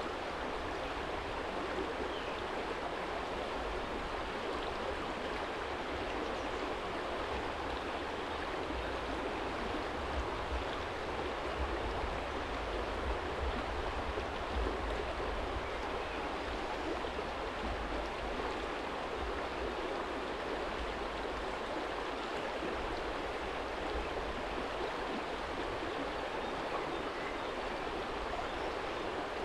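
Small shallow stream flowing and babbling over a stony bed, a steady even rush of water. A low rumble runs underneath, strongest in the middle.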